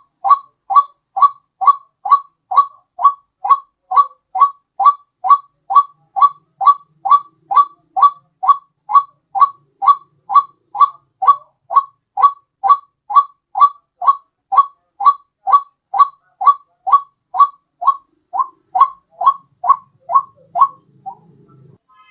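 White-breasted waterhen lure call: one short note falling slightly in pitch, repeated steadily about two and a half times a second, breaking off about a second before the end.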